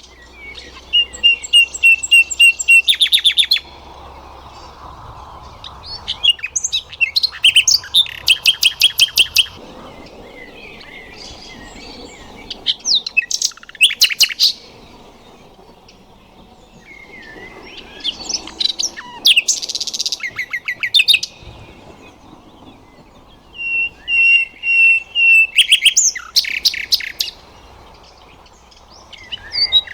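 Nightingale singing: five separate phrases of repeated whistled notes and fast trills, with pauses of a few seconds between them.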